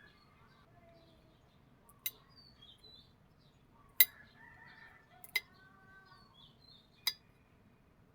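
Hammer striking steel on an anvil in four separate, widely spaced blows, each with a short metallic ring, the second the loudest. Birds call faintly in the background.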